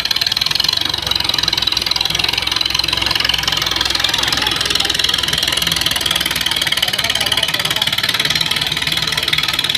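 Diesel tractor engines running loud and steady with a fast, even beat, working under load in a tractor tug-of-war.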